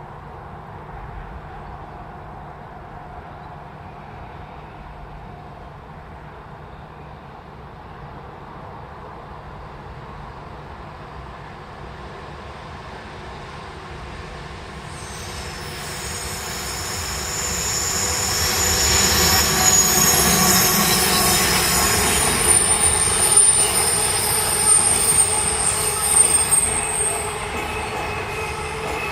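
A train approaching and passing, its wheels squealing in high, drawn-out tones. A low rumble builds through the first half, the squeal starts about halfway in and is loudest in the last third.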